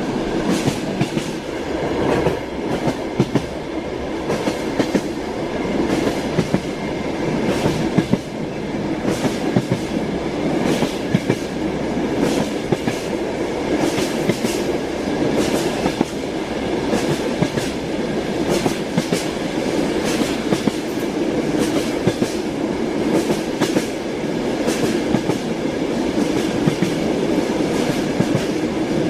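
Train wheels clattering over the rails, heard from inside a moving railway carriage: a steady running rumble with frequent sharp knocks.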